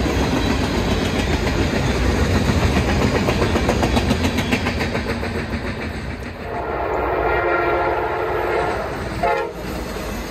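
Freight cars rolling past with a rumble and a rapid wheel clatter, which fades as the train clears. From about six seconds an approaching passenger locomotive sounds its multi-note air horn: one long blast, a short break near nine seconds, then a louder blast near the end.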